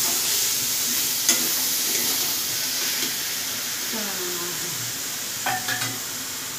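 Boiled chickpeas sizzling in fried masala in a steel kadhai while a flat spatula stirs and scrapes them around the pan, with one sharp tap of the spatula about a second in.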